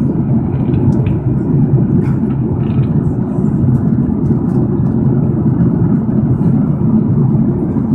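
Steady cabin noise inside an Airbus A330-300 airliner on descent: an even, low rumble of its General Electric CF6 engines and the airflow over the fuselage.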